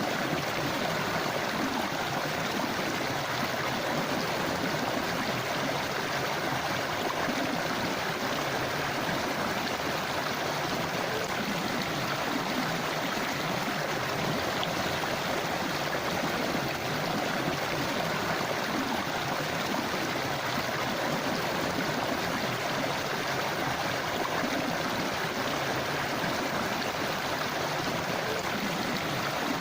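Forest river flowing steadily over stones, an even rush of water with light gurgling.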